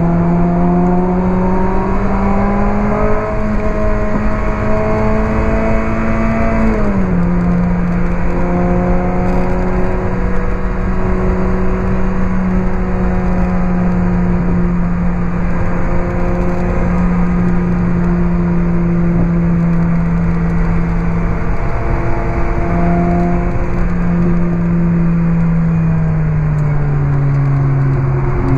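Onboard sound of a Lotus Elise 111R's Toyota 2ZZ-GE 1.8-litre four-cylinder through a Larini Stage 2 exhaust. The engine climbs in pitch for several seconds, then drops sharply at a lift or upshift, then holds a nearly steady pitch under wind and road noise. Near the end the pitch falls again.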